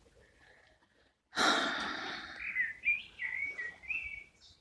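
A long breathy sigh, then a run of short high whistled notes stepping up and down for about two seconds.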